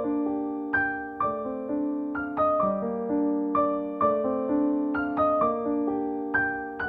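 Background music: a gentle solo piano melody, notes struck one after another and left to ring.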